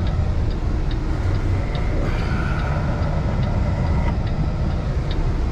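Cab interior of a 2016 Kenworth T680 semi truck under way: steady low drone of its PACCAR MX13 diesel engine with road noise, and a few faint light ticks.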